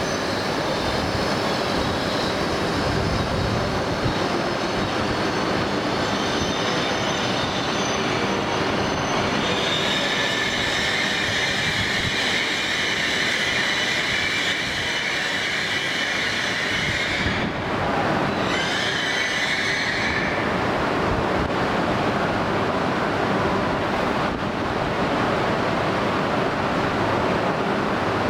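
Steady noise of a Shinkansen train standing at a station platform. A high squealing hiss comes in about ten seconds in, breaks off for a moment, and stops about twenty seconds in.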